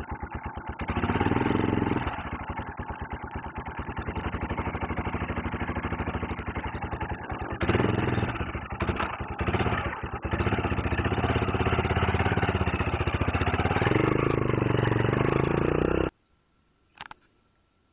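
Motorcycle engine idling with an even pulsing beat and being revved up in short surges several times, then cutting off suddenly.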